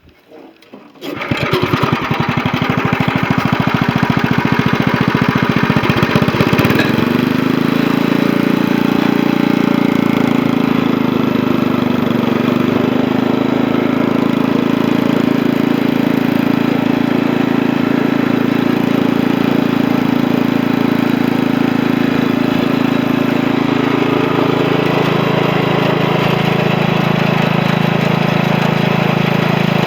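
Wheel Horse Lawn Ranger riding tractor's freshly rebuilt Tecumseh engine comes up to speed about a second in, its note climbing over the next few seconds and then running steadily. About 24 seconds in the engine note drops lower.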